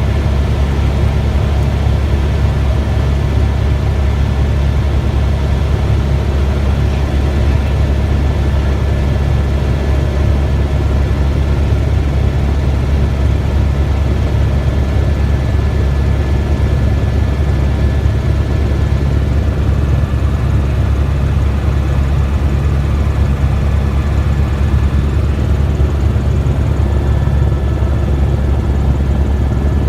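Helicopter in flight, heard from inside the cabin: a loud, steady low drone of rotor and engine, with a thin steady whine above it.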